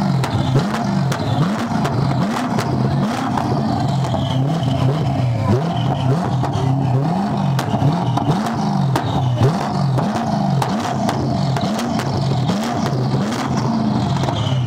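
Twin-turbocharged BMW E90 M3 V8 being revved in quick repeated blips, its pitch rising and falling over and over.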